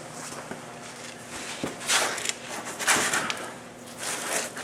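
Scuffing and rustling handling noises with a few light knocks, loudest about two and three seconds in, as the oil is fetched.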